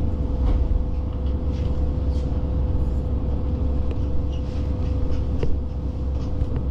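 Diesel local train running along the line: a steady low rumble with a constant tone held throughout, and scattered light clicks.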